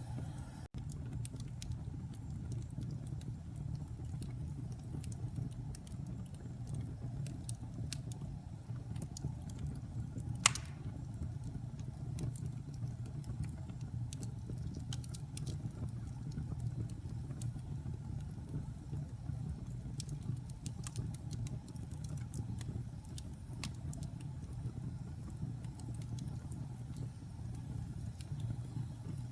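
Wood fire burning in a fireplace: a steady low rumble of flames with scattered small crackles, and one loud pop about ten seconds in.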